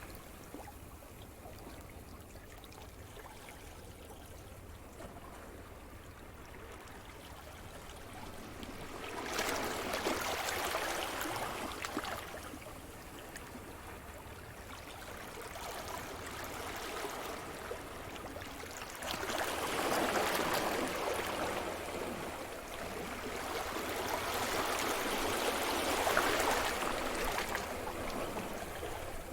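Sea surf: waves washing in on the shore, the hiss swelling with a louder wave about ten seconds in and again from about twenty seconds in.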